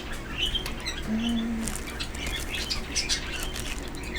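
Pet birds chirping and squawking, many short, quick high calls throughout.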